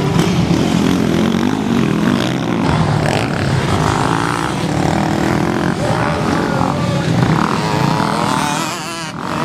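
Motocross bike engines revving on the track, their pitch rising and falling.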